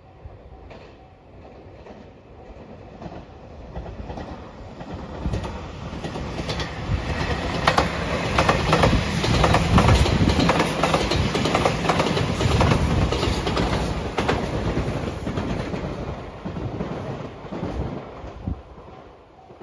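A JR Shikoku 8600 series electric limited express train passing. Its sound builds over several seconds to a run of rapid wheel clatter over the rail joints at its loudest, about ten seconds in, then fades away.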